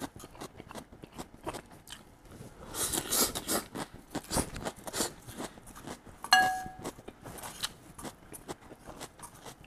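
Crunching and chewing of shredded cabbage, with small clicks of chopsticks against a frying pan, and louder crunching about three seconds in. A short metallic clink rings out about six seconds in.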